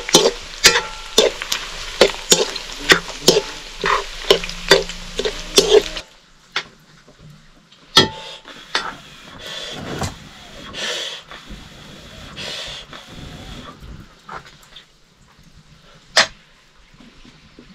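Pork pieces and chopped mustard greens frying in oil in a metal wok, sizzling, with a metal ladle scraping and knocking against the wok about twice a second. After about six seconds the sizzle drops to a quieter simmer with occasional clinks of metal, and one sharp clank near the end.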